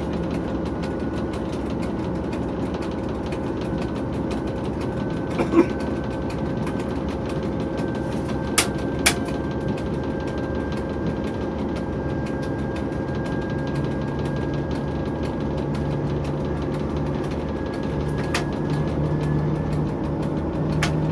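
TEP70 diesel locomotive's 16-cylinder diesel engine running steadily, heard in the cab, with a thin turbocharger whistle held above it that creeps slowly up in pitch. A few short sharp clicks sound along the way, and a low hum grows stronger toward the end.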